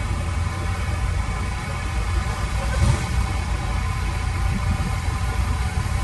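Diesel engine of a piece of heavy construction machinery running steadily, with a single brief knock a little under three seconds in.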